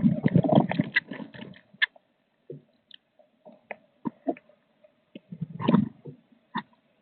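Blue tit moving about inside a nest box: rustling and scratching in the nest material, with scattered sharp taps. There are two louder bouts of rustling, one at the start and one about five and a half seconds in.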